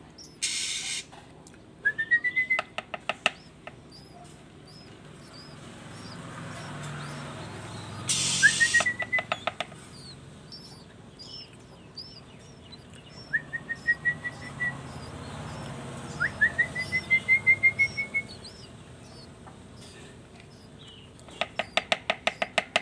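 Songbirds calling: four rising whistled notes, each followed by a quick run of sharp clicks, with two short hiss-like bursts (about half a second in and about eight seconds in) and faint high chirps from another bird throughout.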